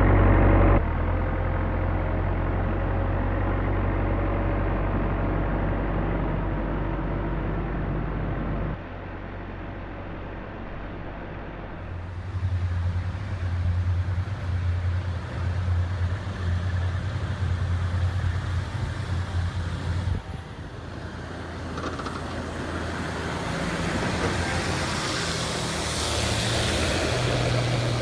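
Heavy snow-clearing machinery running, its engines giving a steady low drone; the sound changes abruptly several times, about a second in and near 9, 12 and 20 seconds, with a rising hiss toward the end.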